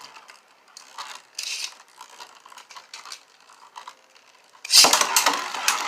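Light plastic clicking and ratcheting as Beyblade tops are fitted to their launchers. Near the end comes a sudden loud launch, and the spinning tops whir and scrape in the plastic stadium.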